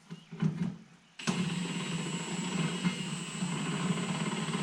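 Handheld power tool motor starts abruptly about a second in and runs steadily for about three and a half seconds with a thin high whine.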